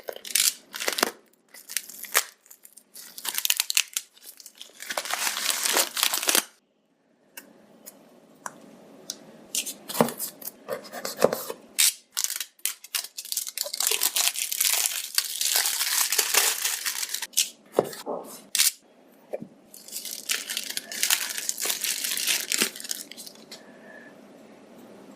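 Packaging being torn open and handled: irregular bursts of ripping and crinkling, with short clicks and taps throughout and a brief silent gap a little after six seconds.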